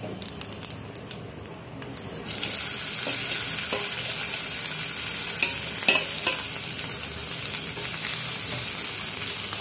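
Cumin seeds crackling lightly in hot oil in a kadhai. About two seconds in, boiled potatoes are tipped into the oil and it breaks into a loud, steady sizzle. A few taps of a steel slotted spatula come as the potatoes are pushed off the bowl and stirred.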